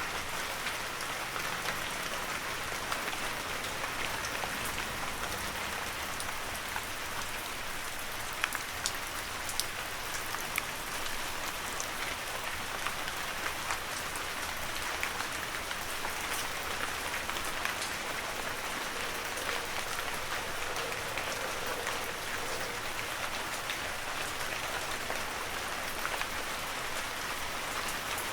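Heavy rain falling steadily on a forest, a dense even hiss with individual drops ticking sharply here and there.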